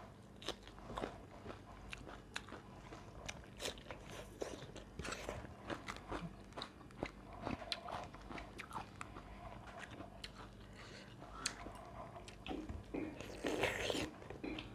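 A person chewing and biting food, with many irregular small crunchy clicks that grow denser and louder near the end.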